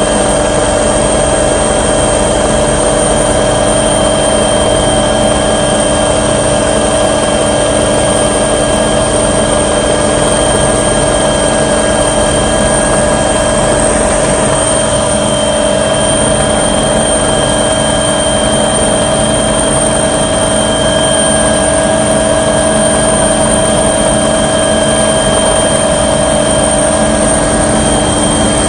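Steady, loud drone of a small aircraft's engine and propeller or rotor, heard from inside the cabin: several constant tones over a dense wash of noise, unchanging throughout.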